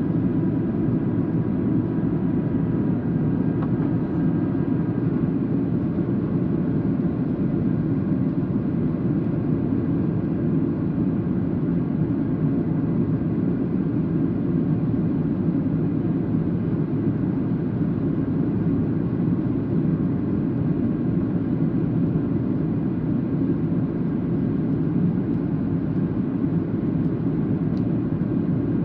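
Boeing 737-800 on approach: the steady rumble of its CFM56 jet engines and rushing air, holding one level throughout, with a faint whine that fades in the first few seconds.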